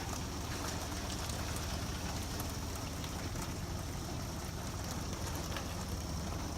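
Rain falling steadily in a Florida downpour: an even hiss with scattered drop ticks.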